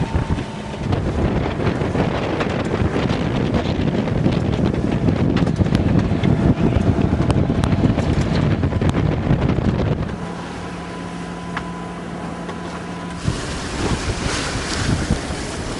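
Wind buffeting the microphone and water rushing along a sailing yacht's hull under way. The sound changes abruptly a few times: about a second in, near ten seconds and near thirteen seconds, with a faint steady hum in between.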